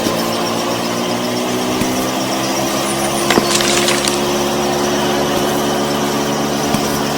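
Small motor running steadily with an even hum, with a sharp click about three seconds in and a brief hiss just after.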